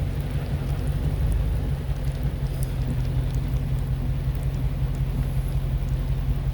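Steady rain, with scattered faint drop ticks over a constant low hum.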